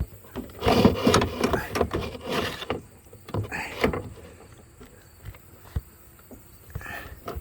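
Irregular clicks, knocks and scraping from handling, crowded into the first three seconds, then a few scattered clicks.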